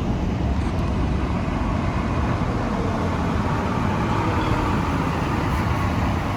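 Steady road traffic noise: vehicles running past on a roadway, heavy in the low end, starting abruptly.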